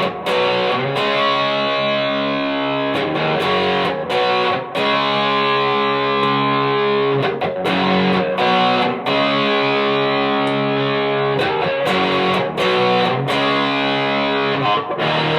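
Electric guitar through a Donner Morpher distortion pedal: distorted chords strummed and held, changing every second or two, with the pedal's tone knob at maximum and its toggle switch moved to another clipping mode.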